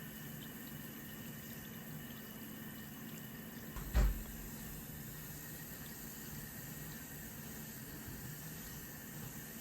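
Steady low hiss with a faint hum, and a single dull thump about four seconds in.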